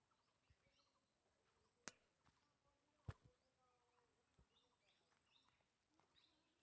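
Near silence with faint, scattered bird chirps and two faint clicks, about two and three seconds in.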